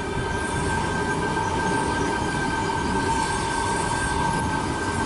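Sydney Trains Tangara electric multiple unit passing through the station: a continuous rumble of wheels on rail, with steady high-pitched tones over it.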